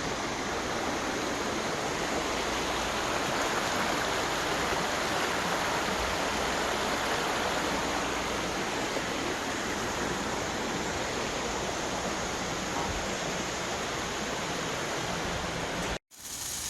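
Mountain stream rushing steadily, running fast and high after the previous evening's rain. The sound cuts off abruptly near the end.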